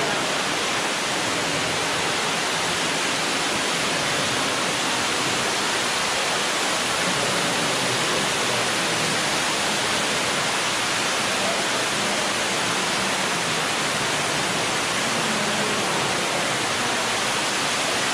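Ruby Falls, an underground waterfall in a cave, pouring down: a steady, unbroken rush of falling water.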